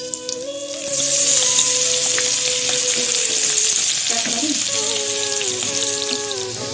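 Food sizzling as it fries in a hot pan, starting about a second in, over background music with a slow, stepping melody.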